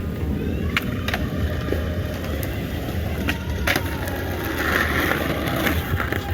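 Skateboard wheels rolling on pavement, a steady low rumble, with several sharp clacks of the board, the loudest a little over 3 s in.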